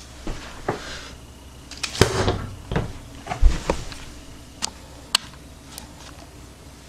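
A run of sharp clicks and knocks in a small room, like a door or cupboard being handled, with a deep thump about three and a half seconds in.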